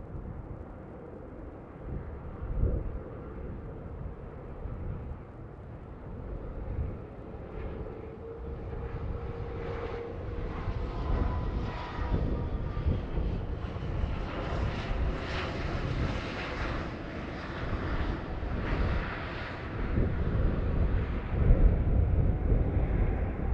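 Jet airliner engines, a rumble and whine that grows louder and fuller from about eight seconds in as the aircraft comes closer. Gusty wind buffets the microphone throughout.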